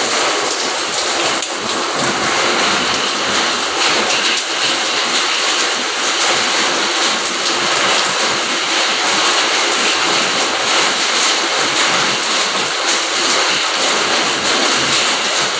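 Steady heavy rain: a loud, even hiss that runs on without breaks.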